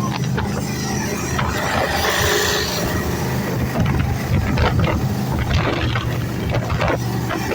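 A jet boat's 454 V8 engine running steadily at speed, a constant low drone under a rushing noise.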